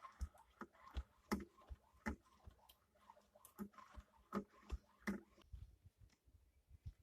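Faint, light wooden knocks and clicks at an uneven pace, about two a second, from working on a homemade wooden lathe.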